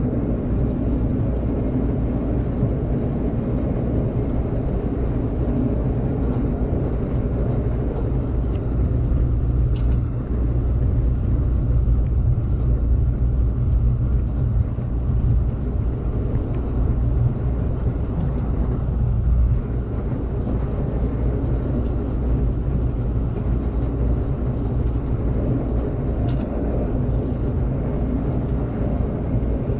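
Amtrak Cascades passenger train running at speed: a steady low rumble of the wheels on the rails and the moving car, with a couple of faint clicks, one about ten seconds in and one near the end.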